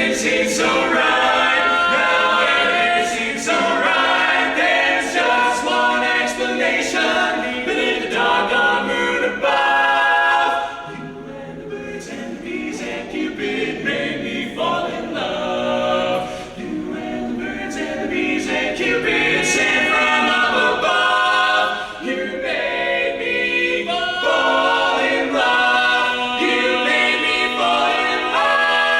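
Barbershop quartet singing a cappella in close four-part harmony. The singing drops to a softer passage about eleven seconds in, then builds back to full volume for the last several seconds.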